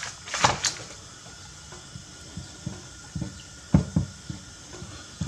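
Kitchen handling noises: two sharp clicks about half a second in, then a series of short, dull knocks and taps from about two to four and a half seconds, over a faint steady hiss.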